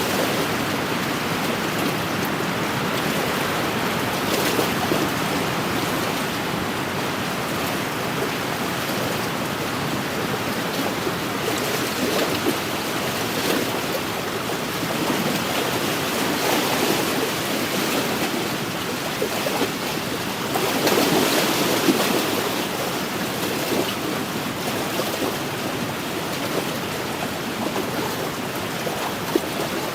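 Wind-driven lake waves washing against the shore in a steady wash of water noise, swelling every few seconds, with the loudest surge about two-thirds of the way through.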